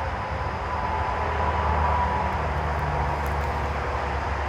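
Steady low rumble like a running vehicle, with a faint steady whine in the first half.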